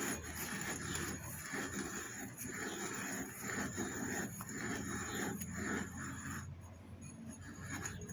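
Irregular scraping and handling sounds of pump parts being worked by hand, as the impeller is turned onto the pump shaft. The sounds stop about six and a half seconds in.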